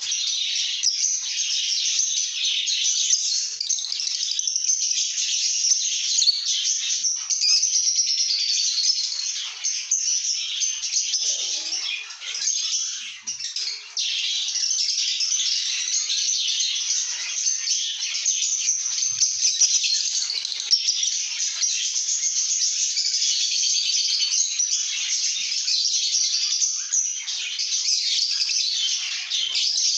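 Lovebirds chattering continuously, many short, high-pitched chirps overlapping with no break.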